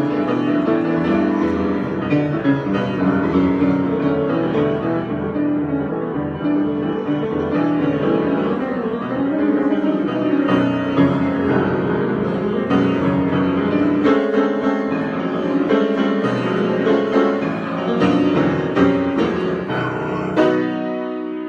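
Piano improvisation: a stream of chords and melody notes, ending about 20 s in on a struck chord that is held and rings out.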